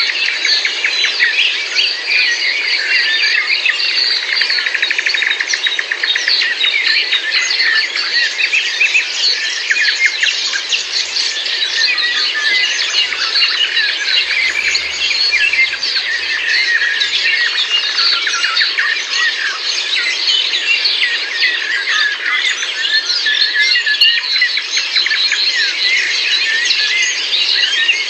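Many birds singing at once, a dense, continuous chorus of quick chirps and trills.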